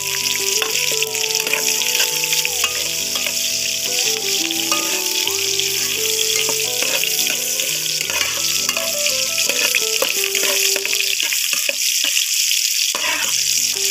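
Garlic and sliced onions sizzling steadily in hot oil in a wok, stirred with a metal ladle.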